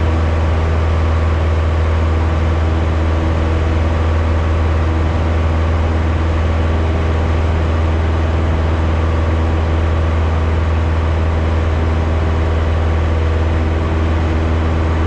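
Piper Archer's four-cylinder Lycoming engine and propeller running steadily at climb power just after takeoff, heard inside the cabin as an even, unchanging drone.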